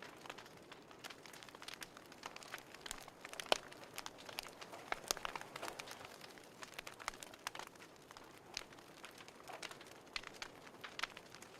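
Fireplace fire crackling: irregular sharp pops and snaps over a faint hiss, with one louder pop about three and a half seconds in.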